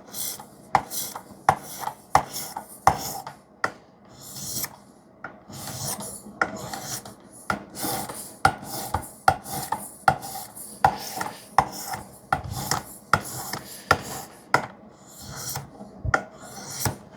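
Knife blade of 3V steel drawn stroke after stroke across an 800-grit sharpening stone on a Work Sharp guided sharpener, a run of short rasping scrapes, roughly one or two a second, each starting with a light click. This is the 800-grit stage of refining the edge toward a mirror finish.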